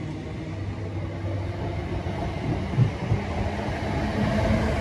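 Electric multiple-unit train moving alongside the platform: a steady rumble of wheels on rail with a couple of brief knocks, and a low motor whine that grows louder near the end.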